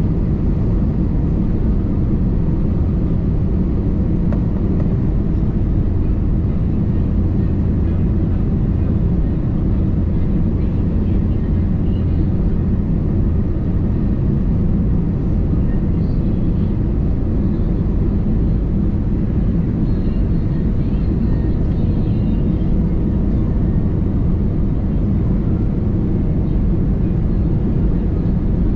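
Steady low rumble of cabin noise inside an Airbus A320neo airliner, even in level throughout.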